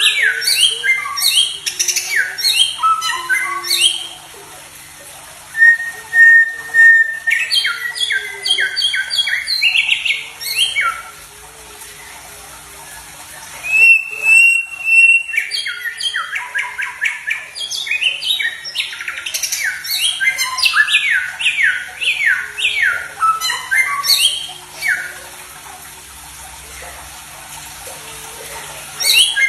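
Songbird song played for training cage birds: bursts of rapid, steeply falling high whistled notes, several seconds each, broken by short pauses.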